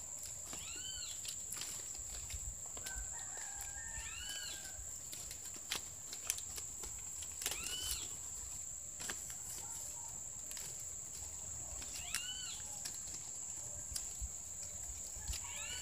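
A bird gives a short, arched call about every four seconds, five times in all, over a steady high-pitched insect buzz. Scattered light crackles come from coconut-palm leaves being woven by hand.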